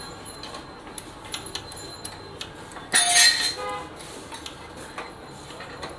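Small metallic clicks and clinks of hand tools and parts being handled. About three seconds in, a louder metal clang rings briefly.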